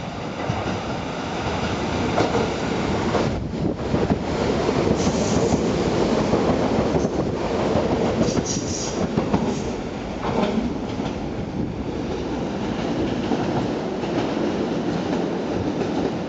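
Tobu 350 series limited express electric train running past the station platform close by: steady rolling noise of wheels on rail with a few knocks over rail joints and brief high-pitched wheel squeals near the middle.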